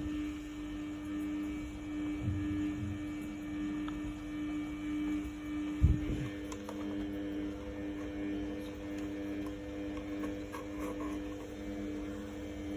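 Samsung WF1700WRW front-loading washing machine running its daily wash programme: a steady mechanical hum with a few dull thumps, the loudest about six seconds in.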